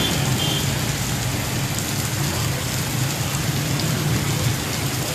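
Heavy rain falling steadily, an even hiss of rain with a low rumble beneath it.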